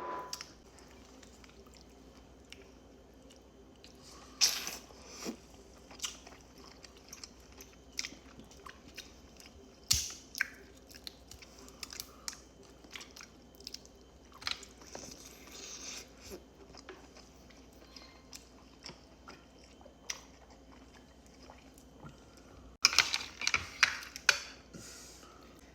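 Close-miked chewing and biting of sauced king crab meat, with scattered crunches and wet mouth sounds and a louder run of them near the end. The meat is tough and rubbery, which the eater takes for overcooked or still-frozen crab.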